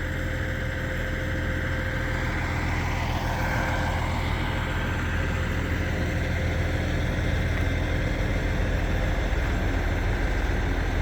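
An engine running steadily, a low hum with a few faint steady tones above it, growing slightly louder over the stretch.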